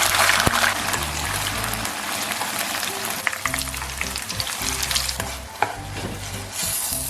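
Food sizzling loudly in hot oil in a pan, with scattered small pops and spatula scrapes as it is stirred; the sizzle surges as food hits the oil just as it begins.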